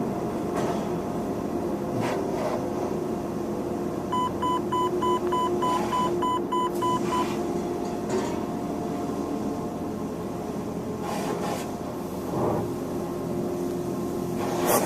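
Steady machinery hum at an express car wash entrance, with a run of about ten evenly spaced electronic beeps, about three a second, in the middle. A burst of hissing spray starts at the very end.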